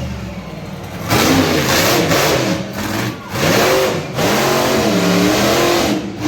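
Monster truck engine revving hard in three loud bursts, its pitch rising and falling, with dips between them.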